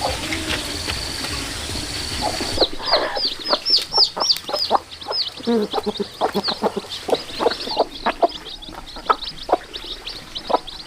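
Chickens calling: a rapid run of short, high, downward-sliding cheeps mixed with clucks, starting about three seconds in. Before that, a steady high tone sounds in short stretches.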